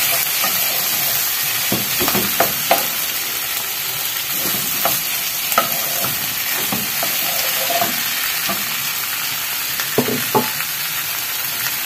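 Diced sausage and vegetables sizzling in a saucepan while a spoon stirs them, with a steady hiss and now and then a short knock or scrape of the spoon against the pan.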